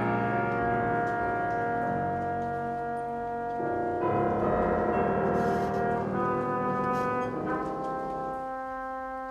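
Classical music from a chamber orchestra: sustained notes in brass and strings over piano, changing chords a few times and thinning out near the end.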